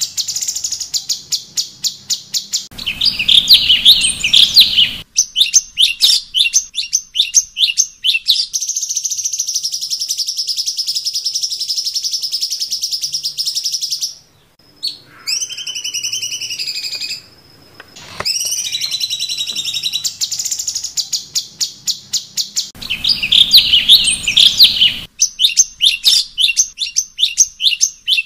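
Cucak cungkok bird singing a loud, clear song of fast repeated high notes, rippling trills and downward-gliding whistles, with a brief pause near the middle. A low noise sits under the song for a couple of seconds twice.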